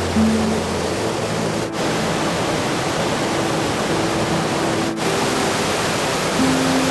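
Golling waterfall, a mountain torrent's falling water making a steady, loud rush.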